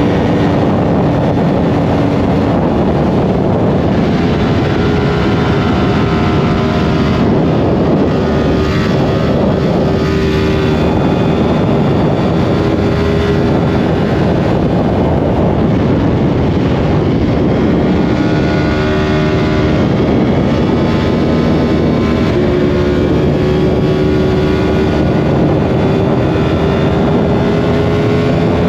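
Yamaha R1 inline-four engine pulling steadily at speed, heard onboard over a heavy rush of wind. Its pitch holds fairly level, dips a little in the middle and creeps up again near the end.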